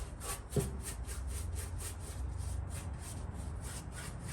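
Surface rust being scrubbed off car body metal by hand, fast back-and-forth strokes at about four or five a second. A brief knock about half a second in.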